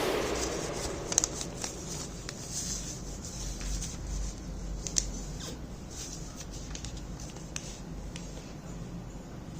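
A sheet of paper being handled and folded by hand: soft rustles with a few sharp crinkles and taps scattered through. The tail of background music fades out at the start.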